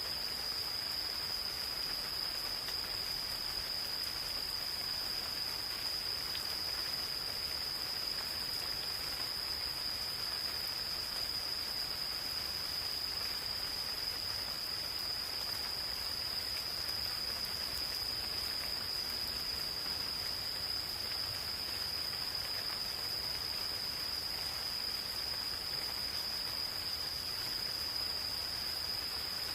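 Gentle rain falling in a forest, with a continuous high-pitched trill of insects holding steady over it.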